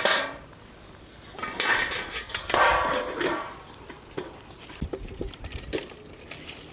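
A dog's calls, two in a row, followed by a few light clicks and knocks.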